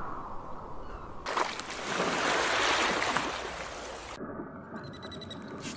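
Sea water splashing and rushing around a whale feeding open-mouthed at the surface, loudest about two to three seconds in. A little after four seconds it cuts to a quieter water sound.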